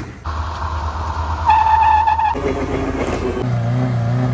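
Car engine running and revving, its sound changing abruptly a couple of times, with a steady high tone lasting under a second about a second and a half in.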